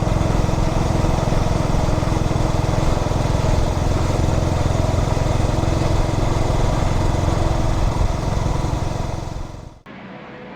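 2003 Yamaha SR400's air-cooled single-cylinder engine running steadily while riding, with road noise. It cuts off abruptly near the end, leaving a much quieter background.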